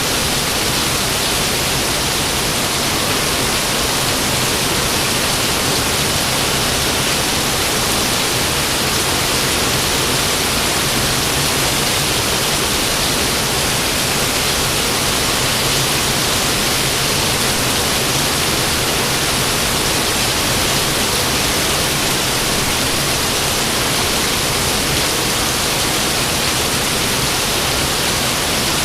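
Steady heavy rain, an even, unbroken hiss with no rises or thunderclaps.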